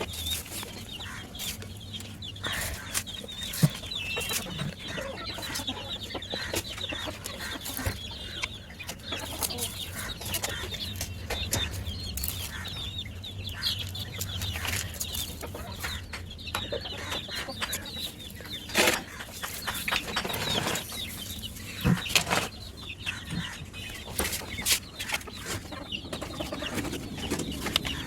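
Domestic hens clucking on and off, with frequent sharp clicks and taps among the calls and a steady low hum underneath.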